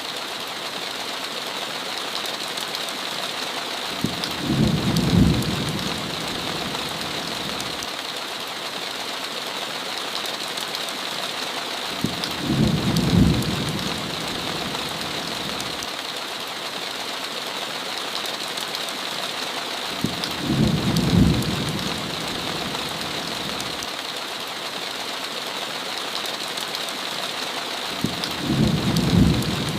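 Steady heavy rain with a short low rumble of thunder about every eight seconds, four in all.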